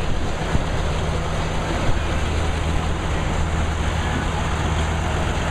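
Sawmill machinery running steadily: a constant low drone with an even wash of noise over it.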